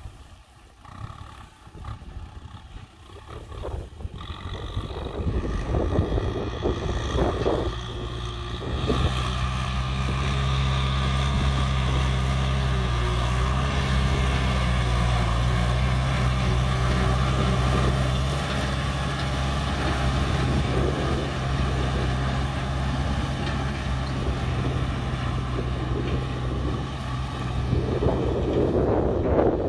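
A tractor's diesel engine grows louder over the first several seconds, then runs steadily with a deep, even note. A rush of noise comes near the end.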